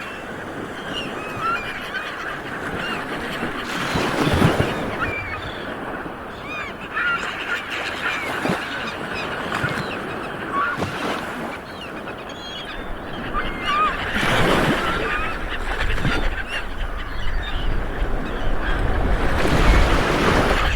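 Light waves washing onto a beach, with three louder surges as waves break, and many short bird calls overhead.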